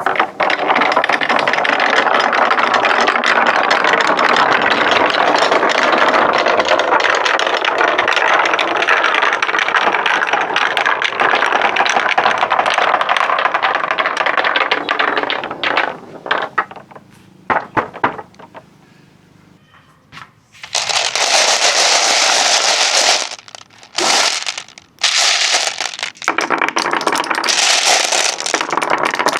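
Marbles rolling and clattering along wooden tracks: a dense, steady rattle for about fifteen seconds that thins to scattered clicks and a short lull, then several shorter bursts of rattling.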